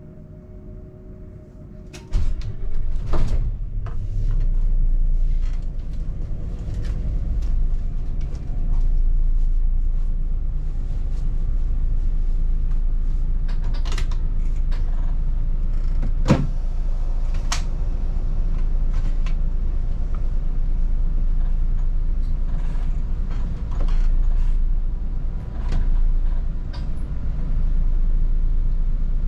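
Volvo 8900 city bus running, heard from inside: a steady low rumble that cuts in suddenly about two seconds in, with frequent rattles and knocks from the body and fittings. It is preceded by a couple of seconds of faint steady tones.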